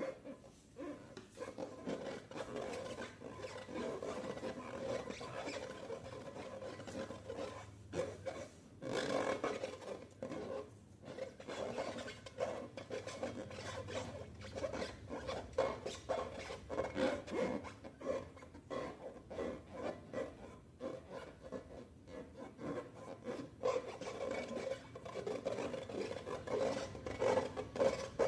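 Slime being mixed and squished by hand: a continuous sticky rubbing and squelching with many small crackles.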